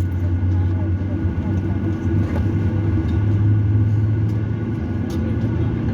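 Airliner cabin noise heard from inside the passenger cabin: a steady low rumble from the engines, with a few faint clicks.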